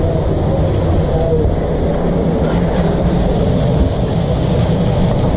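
Steady low machine rumble and hum, running evenly without a break, with a faint hiss above it.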